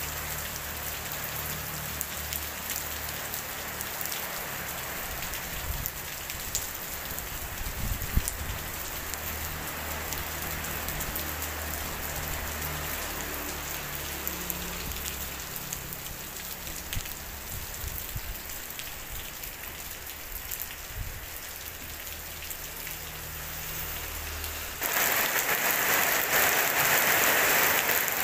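Steady heavy rain falling on a flooded street and wet pavement, an even hiss with a faint low hum underneath. About 25 seconds in, it becomes suddenly louder and closer: rain splashing hard on the pavement.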